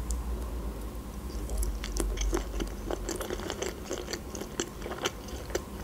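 Close-miked chewing of a mouthful of food: a continuous scatter of small, soft mouth clicks and crunches.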